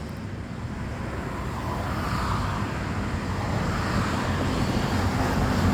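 Street traffic: a car approaching, its tyre and engine noise growing steadily louder.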